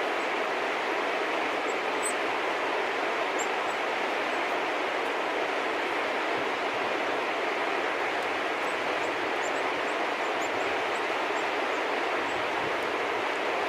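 Steady, even rushing background noise with faint, short, high-pitched bird chirps here and there, a few about two to three seconds in and a cluster about nine to eleven seconds in.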